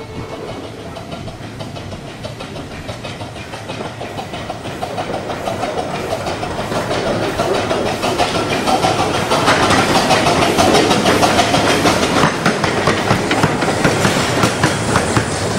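Miniature 15-inch-gauge steam train running past at close range: the carriage wheels clatter in a rapid run of clicks over the rail joints, getting louder as the coaches roll by.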